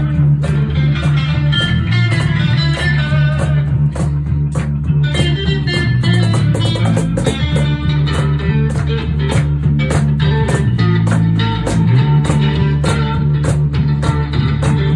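Live band playing an instrumental passage: guitar over a moving bass line, with a steady percussion beat.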